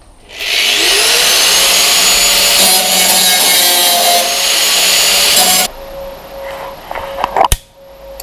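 Angle grinder spinning up with a rising whine and grinding welds flat on the steel bulkhead for about five seconds, then switched off. Quieter scraping follows, and there is a single sharp click near the end.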